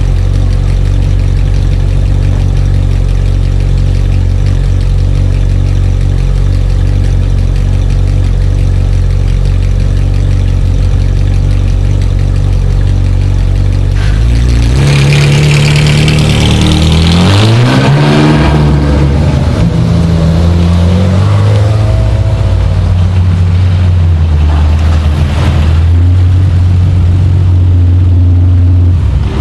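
Ferrari 458 Italia's V8 idling steadily through an exhaust the owner of the footage believes is not stock. About halfway the sound changes to another engine idling, an older Ferrari coupé, with one short rev that rises and falls in pitch before it settles back to a steady idle.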